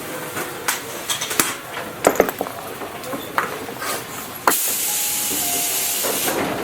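Tobu 8000 series train's air system letting out a sudden loud hiss of compressed air about four and a half seconds in, lasting about two seconds, after scattered clicks and knocks in the quiet car.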